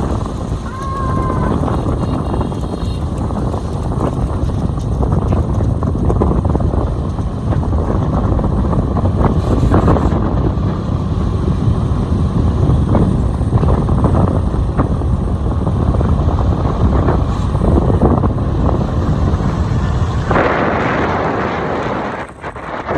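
Heavy wind buffeting on the microphone of a moving motorbike, with the bike's engine and road noise beneath. It gets hissier near the end, then drops away suddenly.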